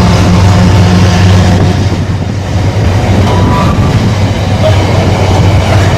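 Diesel freight locomotive engine running with a loud, steady low drone, with rail wagons clattering over the track.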